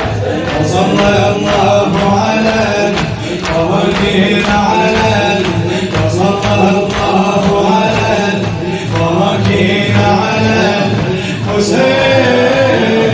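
Male voices chanting a Shia Muharram lamentation (latmiya) over a steady beat of sharp strikes about twice a second.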